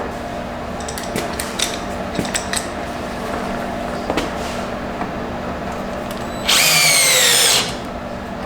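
A power drill fitted with a 10 mm socket runs for about a second near the end, its motor whine rising in pitch, after a few light clicks of tools being handled.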